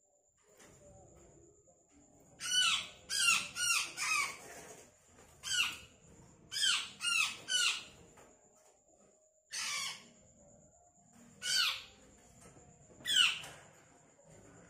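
Black-naped oriole giving harsh, nasal squawks, each a quick falling sweep, about ten of them: two runs of three close together, then single calls a second or two apart.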